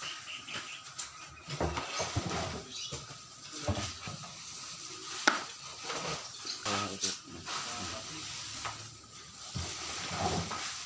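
Irregular clinks, taps and scraping of small metal parts and hand tools being handled, with no engine running.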